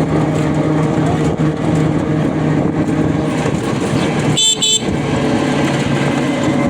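An engine running steadily, with two short high-pitched beeps in quick succession about four and a half seconds in.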